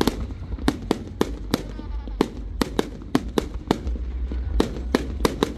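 Fireworks going off in a rapid run of sharp bangs, about three a second at uneven spacing, over a steady low rumble.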